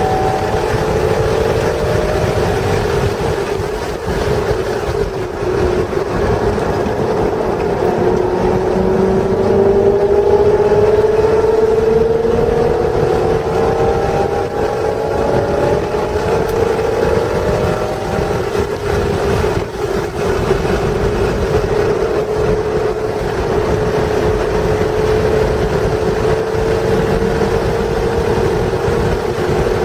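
1996 Acura NSX's stock 3.0-litre V6 engine running hard at speed on track, its note climbing slowly for several seconds and then holding steady, over a constant rushing wind and road noise.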